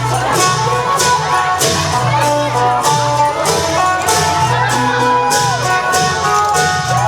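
Isan klong yao long-drum band playing with a phin lute: a plucked, sustained melody over steady drumbeats, with cymbal strokes about twice a second.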